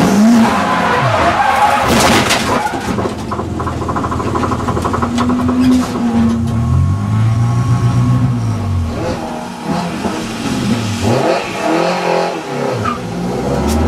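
Audi TT race car engine revving hard. The pitch climbs and drops through gear changes, with a run of quick falls and rises near the end.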